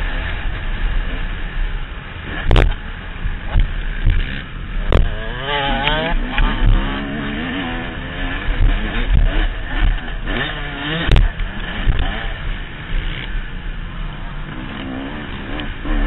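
Motocross bike engine revving up and down on a dirt track, heard through wind rumble on a helmet-mounted camera, with three sharp knocks along the way.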